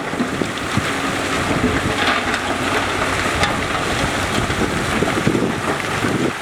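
Diesel heavy earthmoving machinery running steadily, with irregular knocks and clatter throughout.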